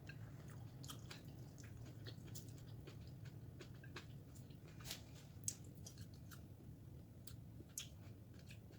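A person chewing food close to the microphone: soft, irregular wet clicks and crunches, with a sharper click about five and a half seconds in and another near the end.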